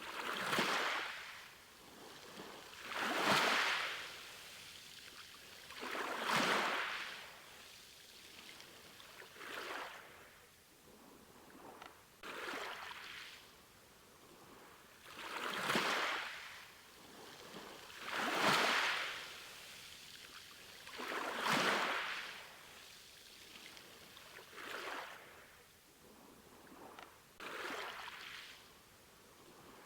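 Sea waves washing in over and over, one about every three seconds, each a rush of water that swells and fades away.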